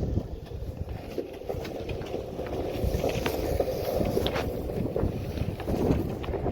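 Longboard wheels rolling over wet asphalt, heard as a steady rough rumble with wind buffeting the microphone and a few light ticks around the middle.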